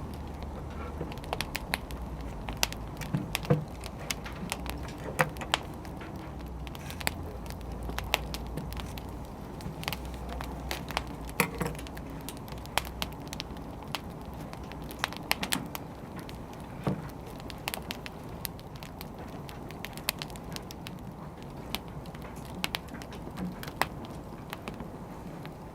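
Burning firewood crackling: irregular sharp pops and snaps, several a second at times, over a steady low rush.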